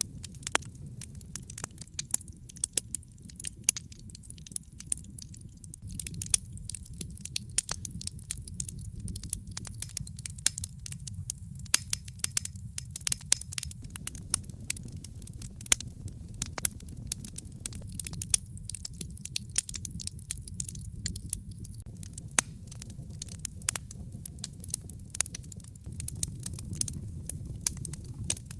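Wood fire crackling in a fireplace: many irregular sharp pops and snaps over a low, steady rumble of flame.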